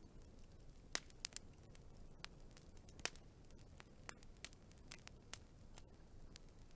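Wood fire crackling: irregular sharp pops and snaps over a soft low rumble, with a quick cluster of three pops about a second in and another loud pop about three seconds in.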